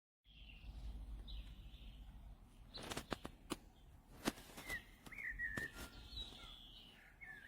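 Faint bird chirps and short whistled calls in the background, with a few sharp clicks about three to four seconds in.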